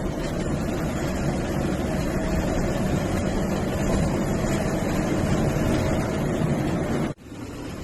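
MSRTC sleeper/seater bus's diesel engine running steadily with road and wind noise, heard from inside the cabin. The sound drops out sharply about seven seconds in and comes back quieter.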